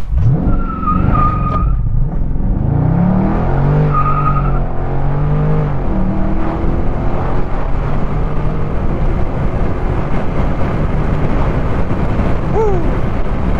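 Dodge Charger Scat Pack's 6.4-litre V8 launching under launch control and accelerating hard, its pitch climbing and dropping back at each upshift of the 8-speed automatic. Brief high tyre squeals about a second in and again about four seconds in, then a steady loud roar of engine, wind and road noise at high speed.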